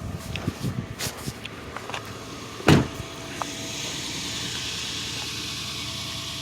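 Several clicks and knocks, a single loud thump about two and a half seconds in, then a steady hiss that sets in and holds: the 2004 Lexus LX470's hydraulic height-control suspension being lowered to its low setting.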